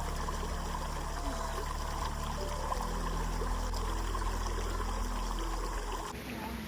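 Stream water running steadily under soft background music. Near the end the water sound drops away abruptly while the music carries on.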